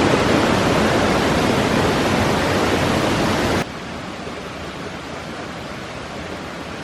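Loud, steady rush of a waterfall heard close up. About three and a half seconds in it cuts off suddenly to a much quieter, steady rushing noise.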